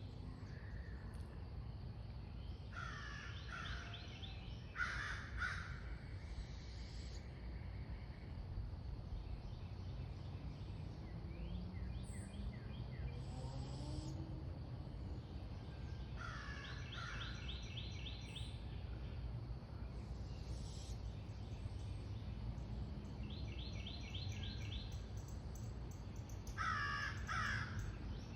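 Harsh bird calls, given in short bouts a few times (around 3 and 5 seconds in, again around 16 seconds and near the end), with a rapid ticking trill from another bird, over a steady low background rumble.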